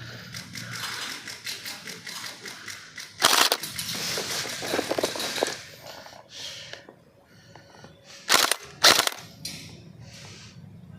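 Airsoft guns firing rapid bursts, a fast rattle of shots, with two short, loud bursts near the end.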